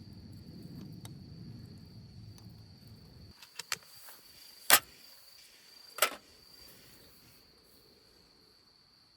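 A steady high insect trill, with a low rumble that stops abruptly about a third of the way in, then a few sharp knocks, the loudest about halfway through and another a second later.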